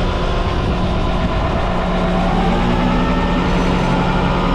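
Semi truck's diesel engine running steadily with the PTO engaged, driving the pump that unloads oil from the tanker; the pitch of the hum climbs slightly in the first couple of seconds, then holds.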